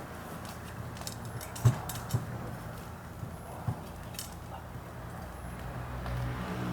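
A small wood and charcoal bonfire crackling with scattered light pops, a few sharp knocks in the first half, and a steady low hum that grows louder near the end.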